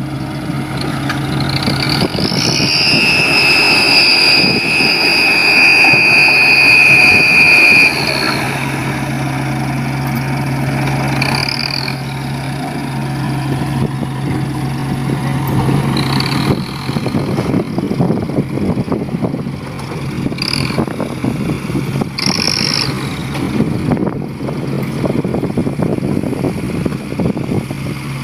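Dump truck engine running steadily. A loud, high, steady whine sounds over it for about six seconds near the start and cuts off, followed by a few short high squeals.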